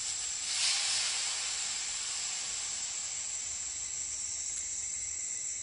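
Eyelash viper hissing once about half a second in, fading over a second or two, over a steady high drone of night insects.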